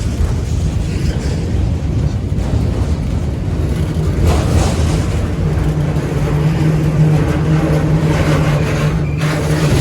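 Freight train of autorack cars rolling past, a loud, steady rumble of wheels on rail, with a low steady hum coming in about halfway through.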